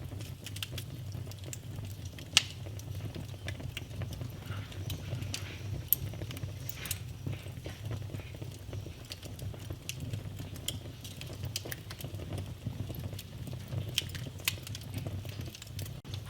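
Wood fire burning in a fireplace: a steady low rumble with irregular crackles and sharp pops, the loudest pops about two and a half and six seconds in.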